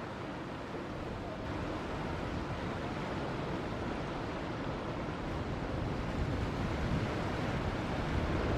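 Ocean surf breaking and washing, a steady rushing noise that slowly grows louder, with wind buffeting the microphone.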